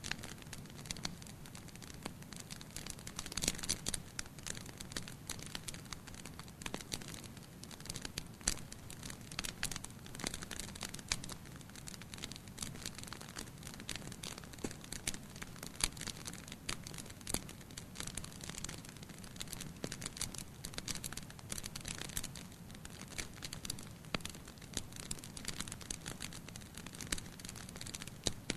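Fire burning in a fireplace, crackling with frequent sharp pops of varying loudness over a low, steady background.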